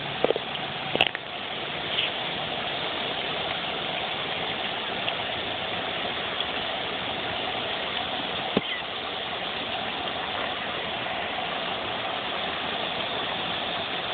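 Steady droning chorus of cicadas, with a few short clicks about a second in and one more past the middle.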